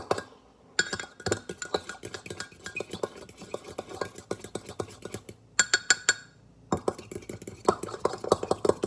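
Fork whisking beaten egg and milk in a mug: rapid clinks of the metal fork against the ceramic mug, pausing briefly twice.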